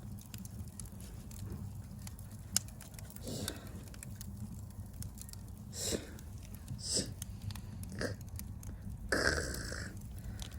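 Campfire crackling, with scattered small pops and one sharp pop about two and a half seconds in, over a low steady rumble. A few short rustling or breathy noises come and go, the longest near the end.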